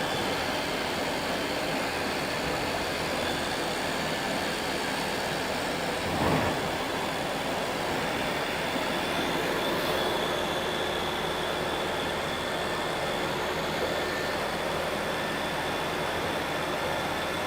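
XE300 nesting CNC machining center running its program in auto mode: a steady mechanical noise with a steady high whine, swelling briefly about six seconds in and again around ten seconds.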